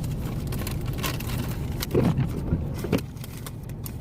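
Steady low rumble of a truck cab with the engine and heater running, with light rustling and clicks from handling, and a brief louder sound about two seconds in.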